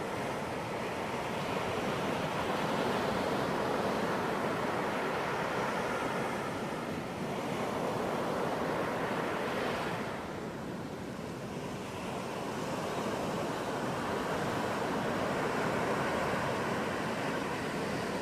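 Ocean surf breaking on a beach: a continuous rush of water that swells and eases slowly, loudest twice with a softer lull between.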